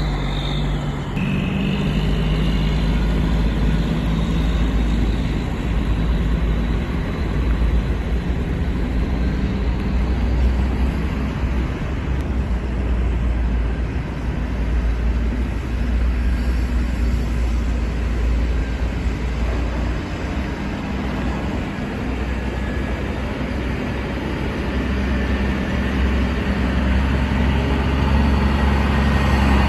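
Diesel engine of a 2011 Western Star 6900XD dump truck running steadily, with a deep low hum.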